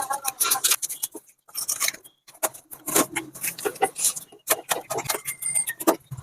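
Rapid, irregular clicks and clinks of metal tools and parts being handled on a water pump under repair.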